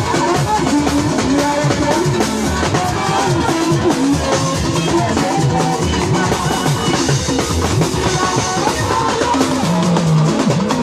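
Gospel band music with a full drum kit keeping a steady beat under pitched instruments, with no singing.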